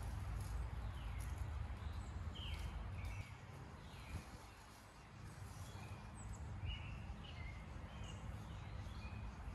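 Songbirds chirping, short sliding calls repeated every second or so, over a steady low rumble.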